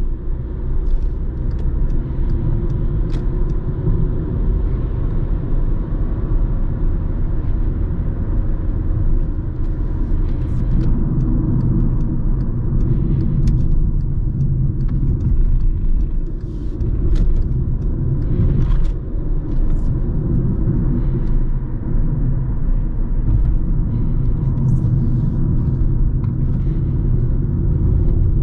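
Truck-assembly-plant floor noise: a steady low machinery rumble with a faint steady whine and scattered metallic clicks and clanks.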